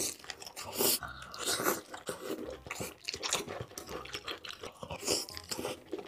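Close-miked eating sounds of a man biting into and chewing spicy red-sauced octopus: irregular wet mouth smacks and crunchy chewing clicks.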